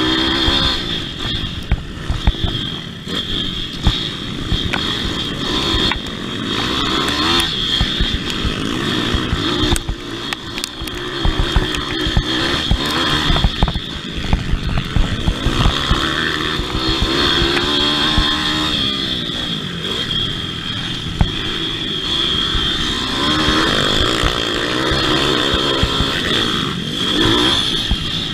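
Pit bikes' small single-cylinder four-stroke engines racing on a motocross track, revving up and falling back again and again as the riders shift and throttle through the course. A steady high-pitched whine runs along with the engines.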